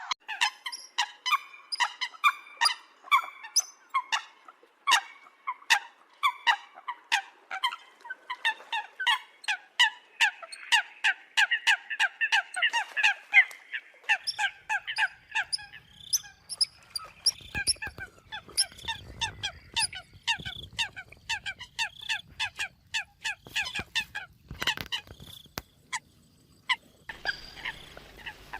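Eurasian coots calling in a rapid run of short, sharp notes, several a second. A low rumble runs underneath from about the middle, and the background changes abruptly near the end.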